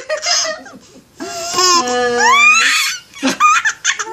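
Baby laughing in bursts: a long squealing laugh that rises in pitch through the middle, then short choppy laughs near the end.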